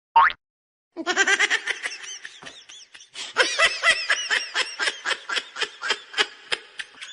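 A short, loud rising squeak, then about six seconds of hearty human laughter in quick repeated pulses.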